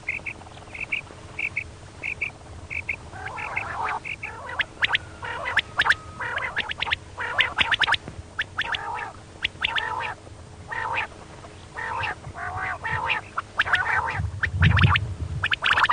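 Female quail calling: at first a row of short, evenly spaced high notes, then from about three seconds in a rapid run of rasping 'kirik' calls in clusters. A faint steady hum runs underneath, and there is a low thump near the end.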